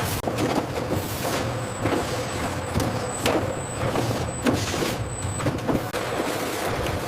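Factory production-line machinery running: a steady low mechanical hum with frequent clicks and clanks, and a thin high whine that comes and goes in the middle.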